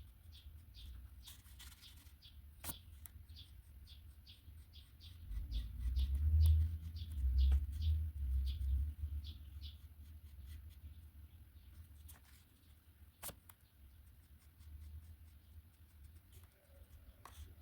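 A pen drawing on paper in short, quick strokes, about two or three a second, with a couple of sharp clicks and a low rumble of handling about a third of the way in.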